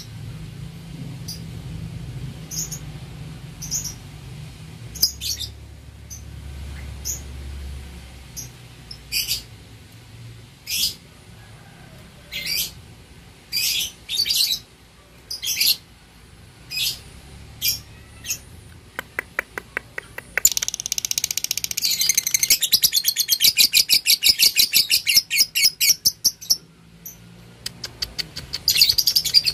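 Lovebird calling: single sharp, high chirps about once a second. About two-thirds of the way in, these give way to a long, very rapid chattering trill, the 'ngekek', lasting several seconds. It starts again near the end.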